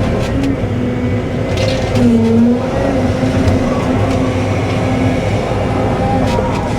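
Cat 313 excavator's diesel engine running steadily under working load, its note dipping briefly about two seconds in, with a few faint knocks and scrapes.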